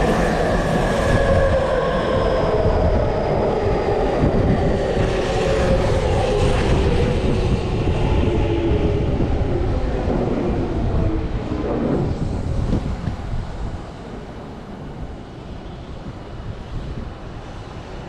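Tokyu Toyoko Line electric commuter train pulling into the platform and braking. The motor whine falls steadily in pitch over rail and wheel rumble, and the noise dies down about two-thirds of the way through as the train comes to a stop.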